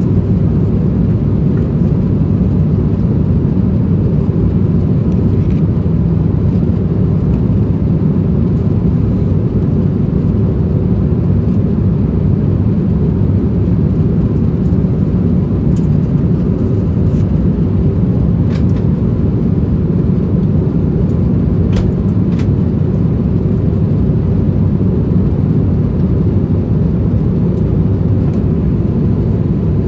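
Steady low rumble of an Airbus A350-1000 in flight, heard inside the cabin: Rolls-Royce Trent XWB engine noise and airflow. A few faint ticks come through past the middle.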